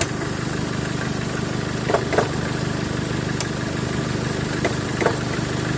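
2013 Chevrolet Colorado engine idling steadily, with a handful of sharp, irregularly spaced clicks over it. The mechanic puts the noise down to a bad pulley rather than the A/C compressor.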